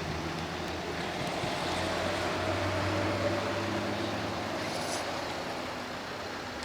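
Garbage compactor truck's engine running steadily, with a faint whine that rises and then eases off about halfway through.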